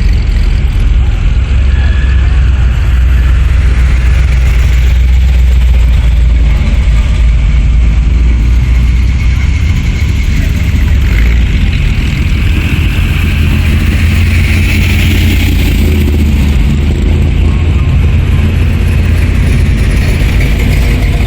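Hot rod and classic car engines running at low speed as cars drive slowly past, a steady deep low rumble.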